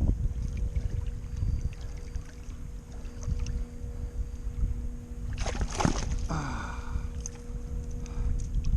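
Wind buffeting the microphone in a steady low rumble, with a faint steady hum under it and a brief noisy burst about five and a half seconds in.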